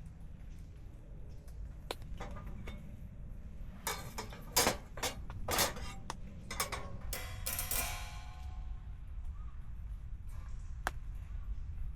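Stainless steel fire pit parts being handled, clinking and clanking several times in quick succession; the last clank rings briefly. A steady low rumble sits underneath.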